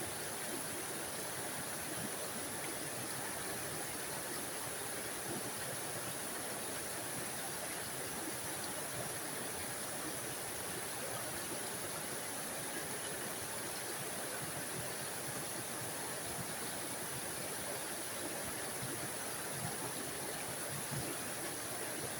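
Small forest waterfall splashing and rushing steadily.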